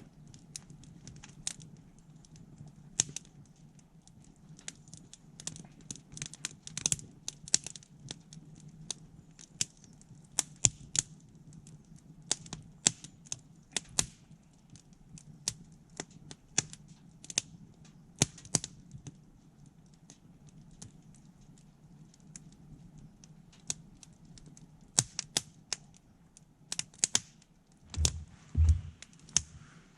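Wood campfire crackling, with irregular sharp pops and snaps over a steady low hum. There are a few dull low thumps near the end.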